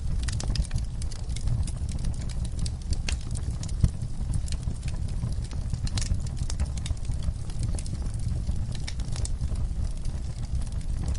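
Wood fire burning in a fireplace, a steady low rumble of flames with irregular crackles and pops, one sharper pop about four seconds in.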